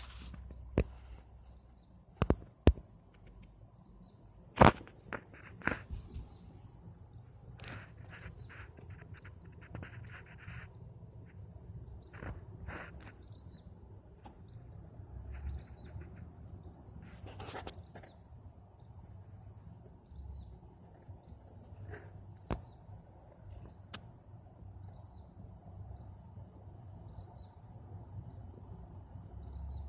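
A bird chirping over and over, a short high falling chirp about once a second, with a few sharp knocks and a steady low hum underneath.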